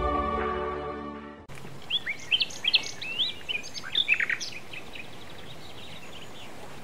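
Background music fades out over the first second and a half, then birds chirp and call in quick, sliding notes over a steady hiss. The calls thin out after about four and a half seconds.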